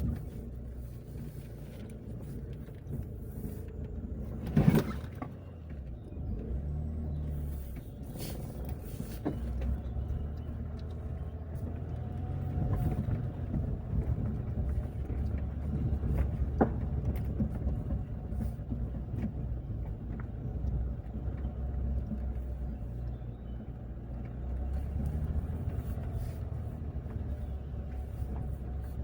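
Car driving, with a steady low engine and road rumble that swells and eases. There is a sharp knock about five seconds in and a smaller click later on.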